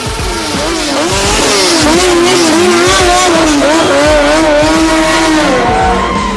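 Several motorcycle engines revving, their pitches rising and falling and overlapping, loudest in the middle and dropping away near the end.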